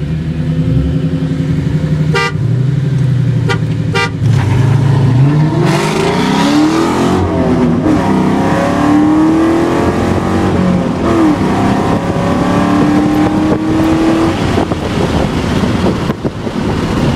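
2001 Mustang Bullitt's 4.6-litre two-valve V8 with an aftermarket exhaust, heard from inside the car during a street race. It runs steadily for a few seconds, then accelerates hard, the revs climbing and dropping back at each upshift. A few short sharp sounds come between about two and four seconds in.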